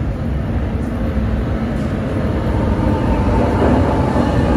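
NJ Transit ALP-46A electric locomotive pulling a multilevel train into the platform, a low rumble that grows steadily louder as it draws near. A faint higher whine joins in near the end.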